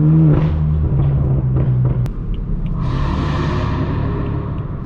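Straight-piped BMW M4 F82's twin-turbo inline-six exhaust droning at a steady cruise, the drone falling away about two seconds in. A rushing hiss then swells and fades over about two seconds.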